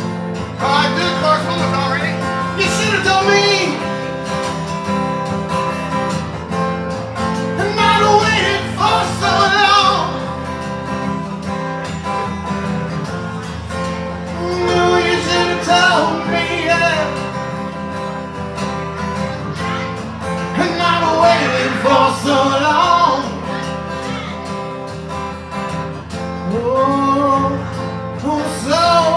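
Live acoustic guitar strumming a steady accompaniment while a voice sings melodic phrases every few seconds.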